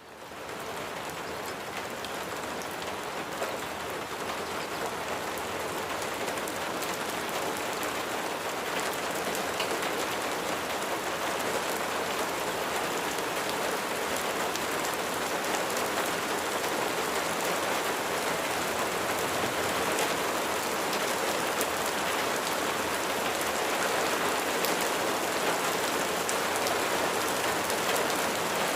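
Steady rain falling: a dense, even hiss of rain on a surface with scattered individual drops. It fades in over the first second, then holds steady, growing a little louder towards the end.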